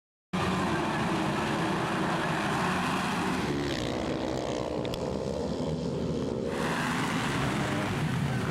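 Motocross bike engines racing, revving up and down with shifts in pitch as the bikes accelerate and back off; the sound cuts in abruptly a moment after the start.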